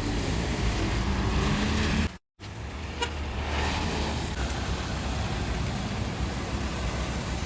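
Diesel engine of a heavy vehicle, a truck or bus, running low and steady at crawling speed with road noise. The sound drops out completely for a moment about two seconds in.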